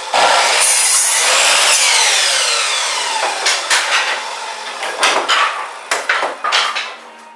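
Electric chop saw cutting through wood, its blade and motor then winding down in a falling whine. This is followed by several sharp knocks and clatters of wood being handled.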